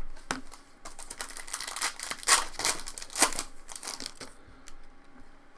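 A foil trading-card pack wrapper crinkling as it is torn open and handled, a dense crackle for a few seconds that fades out toward the end.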